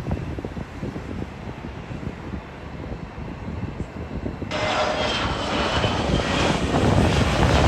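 Jet airliner engines passing close by: a low rumble that becomes much louder just past halfway, with steady high whining tones over the noise.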